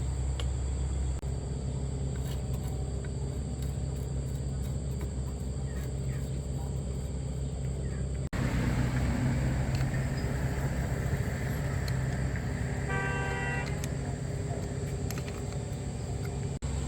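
A steady low mechanical hum, with a short horn-like toot about two-thirds of the way through.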